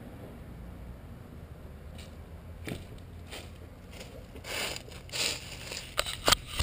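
Close rustling, scraping and sharp clicks against the microphone, sparse at first and denser and louder near the end, over a faint steady low rumble.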